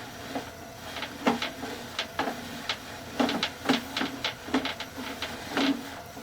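A run of irregular mechanical clicks and knocks, about a dozen, from a sewer inspection camera's push cable being fed down the line.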